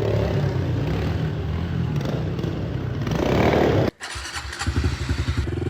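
Dirt bike engine running under throttle, its pitch climbing as it revs about three seconds in. It cuts off suddenly about four seconds in, and a second stretch of engine running follows.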